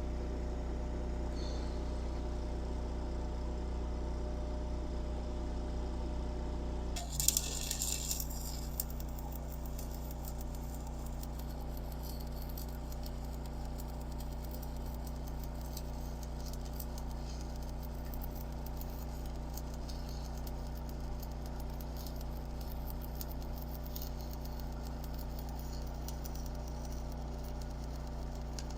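A steady electrical hum, then from about seven seconds in a continuous fine crackling, typical of an arc welder laying a bead along the ground-out crack.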